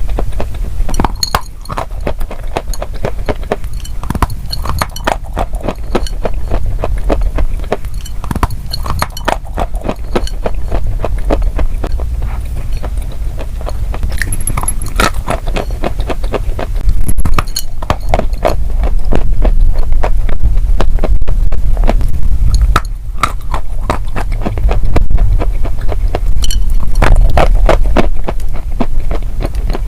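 Close-miked crunchy chewing: dense, irregular crackling and crunching with a heavy low rumble, loudest in the second half.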